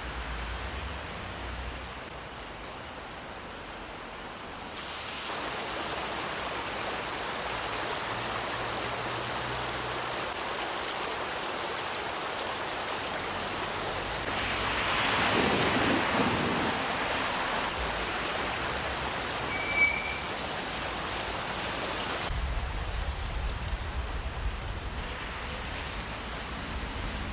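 Heavy rain and floodwater running over a street and pavement: a steady hiss of water that swells louder for a few seconds about halfway through.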